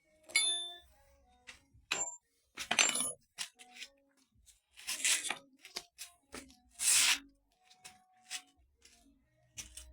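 Metal parts and tools being handled: a string of separate clinks, knocks and short scrapes, some hits ringing briefly.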